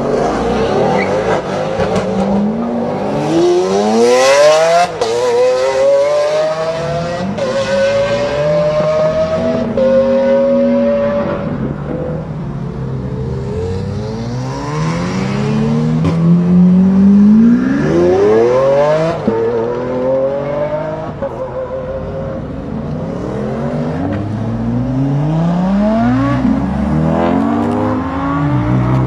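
High-performance car engines accelerating hard and revving, several runs one after another. The pitch climbs steeply and drops back at each gear change.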